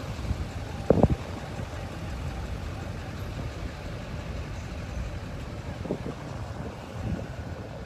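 Cars and trucks rolling past slowly in heavy traffic, engines running as a steady low rumble, with a short loud burst about a second in.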